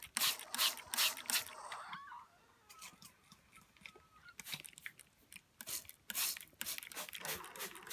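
Hand-held spray bottle squirting water in quick short bursts, about three a second, filling a water dish; the squirting stops after about a second and a half and starts again later.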